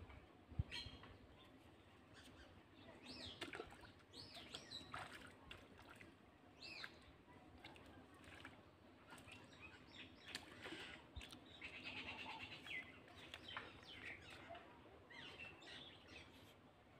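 Faint birdsong: scattered short chirps and calls with quick sliding notes. A single sharp knock about half a second in is the loudest sound.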